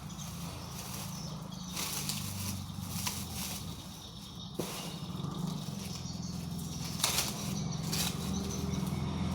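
Two-stroke motorcycle engine running at a low, steady idle, with a few light clicks, growing louder near the end.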